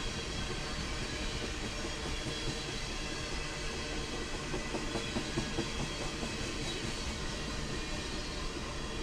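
Oil train's tank cars rolling past on steel wheels, a steady rumble and clatter of wheels on rail, with faint high wheel-squeal tones running through it.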